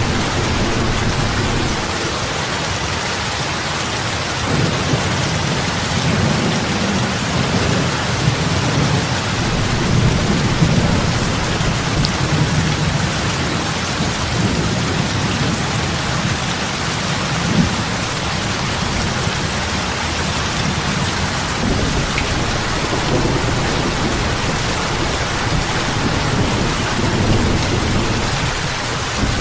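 Heavy rain falling steadily on open lake water, a dense even hiss of drops hitting the surface. A low rolling rumble comes in about four seconds in and rises and falls under the rain.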